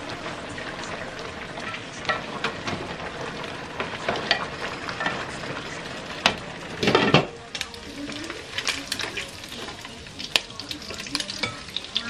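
Fish frying in hot oil in a covered frying pan: a steady sizzle full of crackles and small pops. About seven seconds in, a louder rush of noise lasts about a second, after which the frying goes on with sparser pops.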